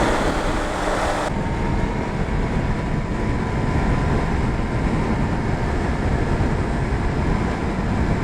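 Wind rush over the microphone of a Yamaha R1 sport bike at highway speed, with the bike's engine running underneath. About a second in, the bright hiss cuts off sharply, leaving a duller, steady rush of wind.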